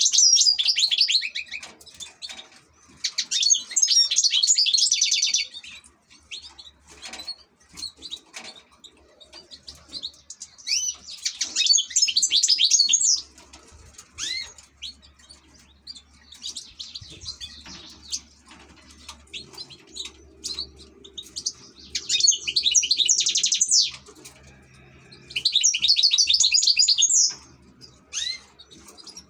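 European goldfinch singing: bursts of rapid, tinkling twittering about two to three seconds long, six times, with short pauses between.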